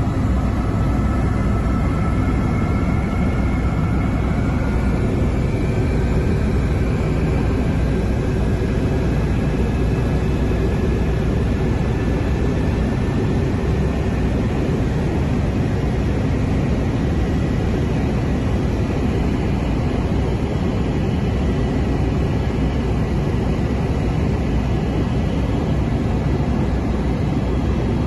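Écureuil helicopter in flight: steady, loud rotor and turbine noise heard from inside the cabin, with faint high tones that slowly rise in pitch over roughly the first ten seconds.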